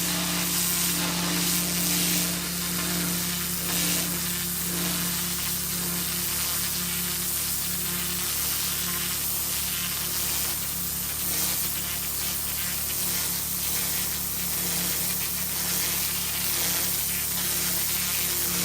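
Pressure washer running steadily: a low machine hum with the loud hiss of the high-pressure water jet spraying onto paving.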